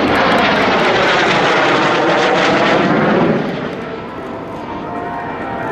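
Kawasaki T-4 jets of the Blue Impulse team flying past low, loud jet engine noise with a sweeping, phasing change in pitch. It fades about three seconds in.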